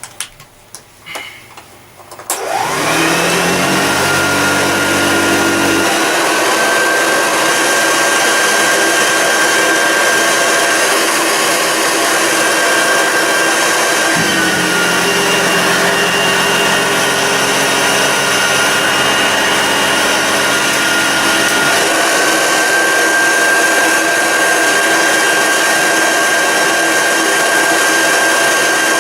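A 1973 Hoover Junior 1354A upright vacuum cleaner is handled with a few knocks, then switched on about two seconds in. Its motor whines up to speed and runs steadily. The whine shifts slightly in pitch a few times; the machine is freshly serviced and working nicely.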